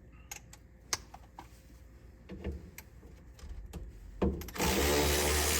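A few light clicks and taps, then about four seconds in a small electric motor starts running steadily.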